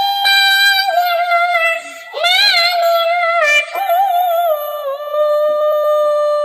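Domestic cat yowling in long, drawn-out, wavering meows that sound almost sung: two long calls, the second starting about two seconds in.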